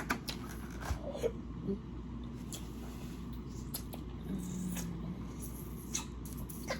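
Person chewing food: scattered soft wet clicks of mouth sounds, with a short low hum from the eater a little past halfway.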